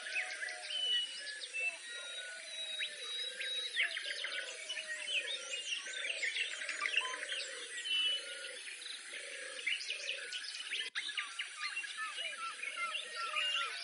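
Wild birdsong: many small birds chirping and trilling over a low, steadily repeated run of arched cooing notes.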